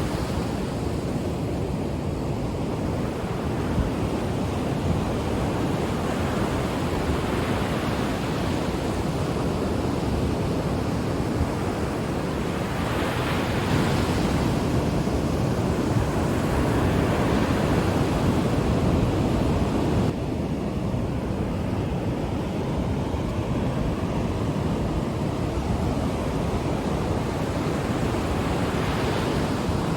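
Ocean surf breaking and washing up the shore: a continuous rushing wash of waves that swells louder through the middle and drops back suddenly about two-thirds of the way in, with another wave swelling near the end.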